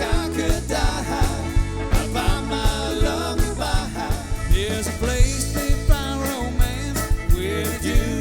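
Band playing a song live: a singing voice over bass and drums with a steady beat.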